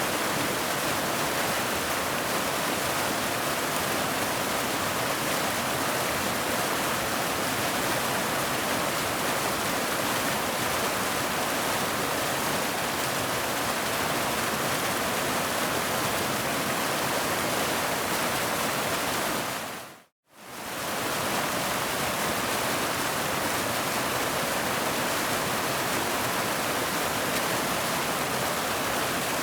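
Waterfall rushing in a steady, even roar. About twenty seconds in it briefly fades to silence and comes straight back.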